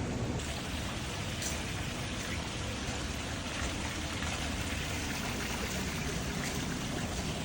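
Steady rush of falling, splashing water.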